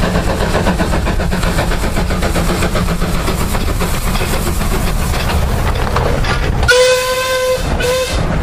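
A train running with a steady clattering rumble. Near the end its whistle blows one long blast and then a short one.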